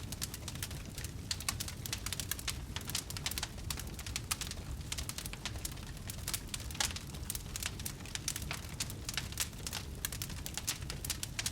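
Wood fire burning in a fireplace, crackling continuously with many quick, irregular pops and snaps over a low rumble of the flames.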